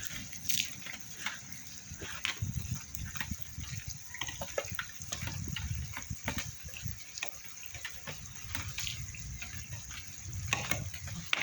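Rain falling steadily, with irregular drips and splashes.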